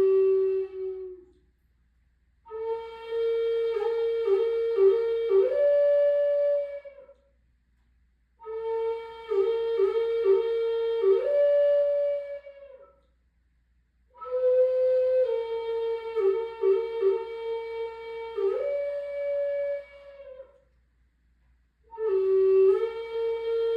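A solo flute-like wind instrument playing a slow repeated melody in phrases of about five seconds. Each phrase holds one note with quick ornamental dips, steps up to a higher note near its end, and then stops for a pause of a second or two.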